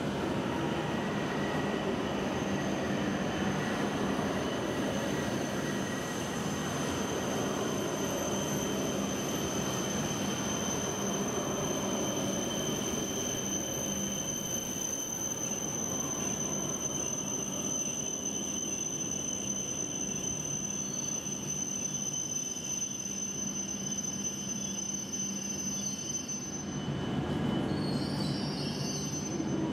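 W7 series Shinkansen train rolling slowly into the station, its running noise fading over the first dozen seconds as it draws away. A thin steady high whine carries on and cuts off a few seconds before the end.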